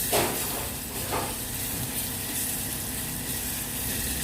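Ginger-garlic paste sizzling steadily in hot ghee in a pressure cooker, with two brief scrapes near the start.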